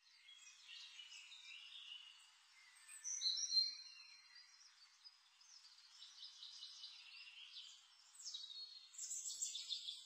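Faint birds chirping and singing, with a louder run of calls about three seconds in and again near the end.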